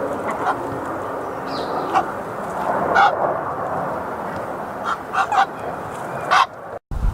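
Geese honking in short calls: once about three seconds in, a few times about five seconds in and again near the end, over a steady rushing background noise. The sound cuts out abruptly just before the end.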